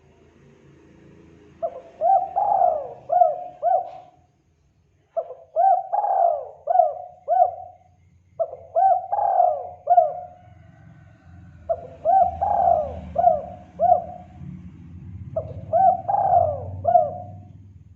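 Spotted dove cooing, a lure call for wild doves: five phrases of several short rising-and-falling coos each, a second or two apart. A faint low rumble runs underneath.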